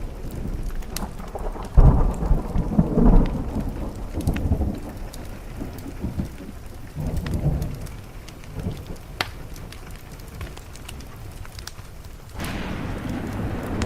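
Thunder rumbling over steady rain, with loud rolls of thunder about two and three seconds in and a weaker one near the middle; the rain and rumble swell up suddenly near the end.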